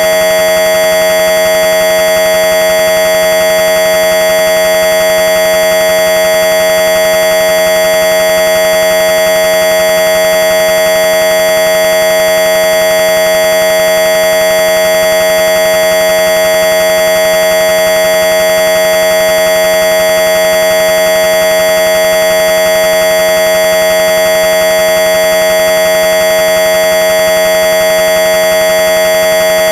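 Loud, harsh electronic tone generated by the malware program's sound payload. It holds one steady pitch with a buzzy stack of overtones and never changes, starting abruptly after a moment of silence and cutting off at the end.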